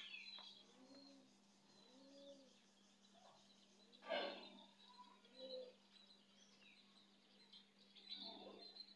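Faint bird calls: short low calls that rise and fall, repeating about a second apart, with thin high chirps, over a faint steady hum. A brief, louder noise about four seconds in is the loudest moment.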